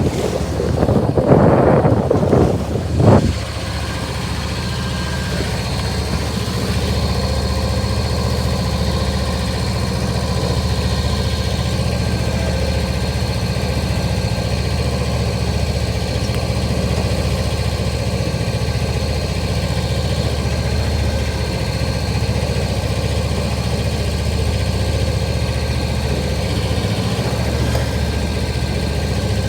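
Wind gusting over the microphone for about the first three seconds, then a boat engine running steadily at constant speed.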